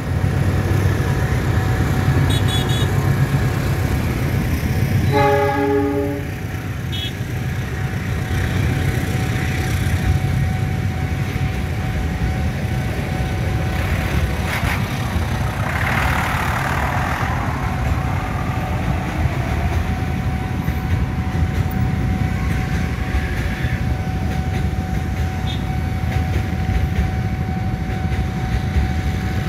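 Diesel-hauled freight train rolling past a level crossing, with the steady low rumble of the locomotive and wagons. A horn sounds once for about a second, some five seconds in.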